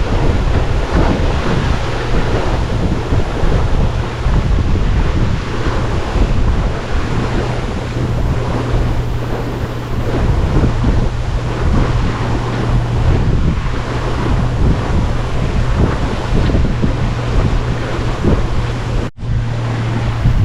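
Wind buffeting the microphone and water rushing along the hull of a sailboat under sail at speed, over a steady low hum. The sound drops out briefly near the end.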